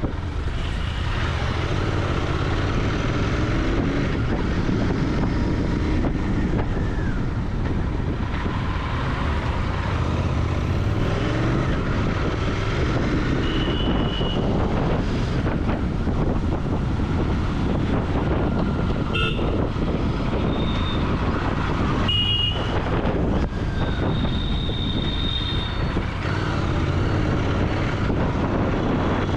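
Royal Enfield Continental GT 650's parallel-twin engine running through its exhaust while riding in traffic, its pitch wavering with the throttle. Several short car-horn toots sound over it from about halfway in.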